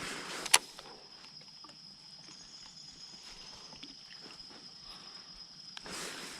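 Steady high-pitched insect chirring, with a single sharp click about half a second in and small scattered knocks and ticks.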